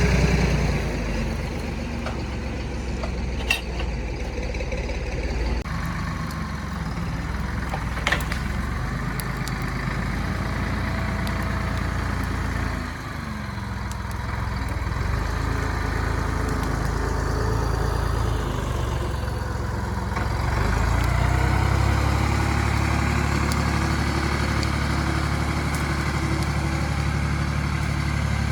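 Tractor engine running steadily while working, dropping in speed about halfway through and picking up again later. Two sharp knocks sound early on, one at about 3.5 seconds and one at about 8 seconds.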